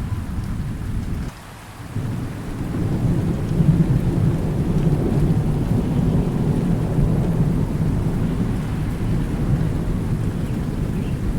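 Steady rain with thunder rumbling low. About a second in, the sound drops away abruptly for half a second; then the thunder comes back and swells.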